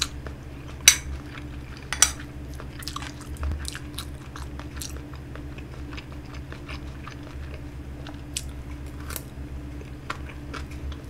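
Close-miked chewing and lip smacking of a mouthful of kimchi fried rice: a scatter of short, sharp wet mouth clicks, two of them louder about one and two seconds in, over a steady low hum.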